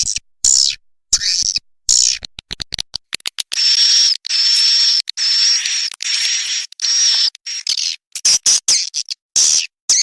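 Swiftlet call track used as a nest-house lure: rapid twittering clicks, then a run of about six buzzing trills of about half a second each, then twittering again near the end.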